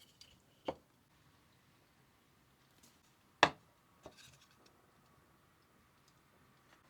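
A few sharp knocks, as of wood or tools being set down or handled. The loudest comes about three and a half seconds in, with a lighter one shortly after and faint rustling between them.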